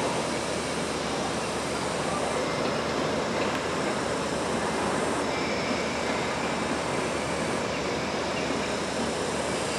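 Steady running noise of an engineering locomotive towing a new train slowly along the track.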